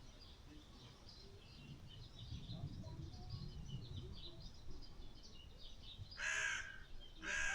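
Two loud, harsh bird calls about half a second each, a second apart near the end, over steady twittering of small birds.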